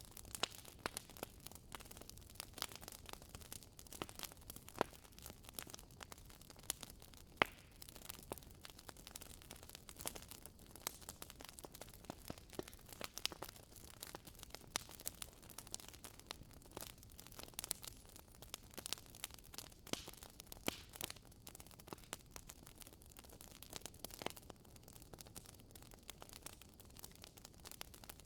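Fire crackling in a fireplace: irregular small pops and snaps over a faint hiss. The sharpest pop comes about seven seconds in.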